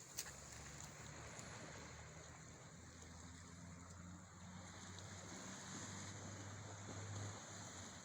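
Faint, steady wash of sea water at night, with a low steady hum underneath and a single click just after the start.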